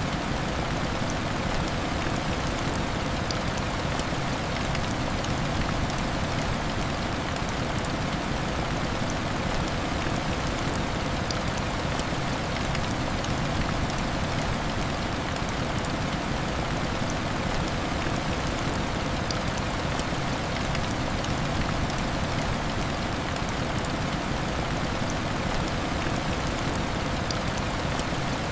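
Heavy rain falling steadily against window glass, an even hiss sprinkled with fine ticks of drops, with no change in strength.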